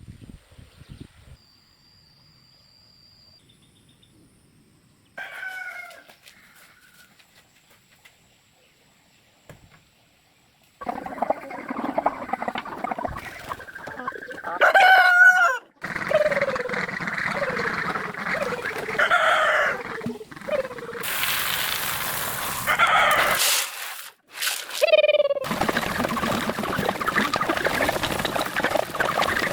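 Roosters crowing and chickens clucking over a steady background clamour, in several abrupt cuts. The first few seconds are quiet apart from a single short call.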